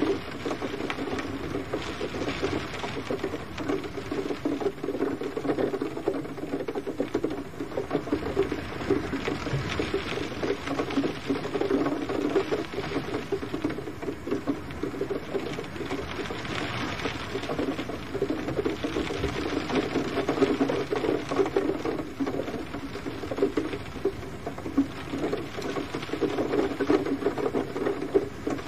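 Gentle rain pattering steadily, a dense crackle of drops on a surface that swells and eases slightly every few seconds.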